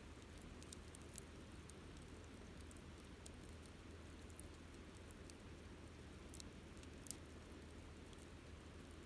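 Wood campfire crackling softly: scattered sharp pops and ticks, the loudest about a second in and about seven seconds in, over a low steady hiss.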